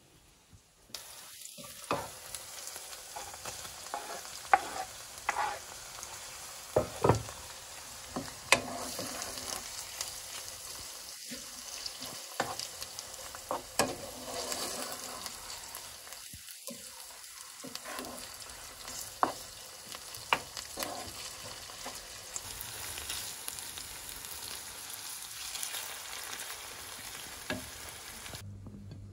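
Diced chicken breast and chopped onion sizzling in oil in a nonstick frying pan, stirred with a wooden spatula that scrapes and taps against the pan. The sizzle starts about a second in, and the spatula taps come irregularly over it.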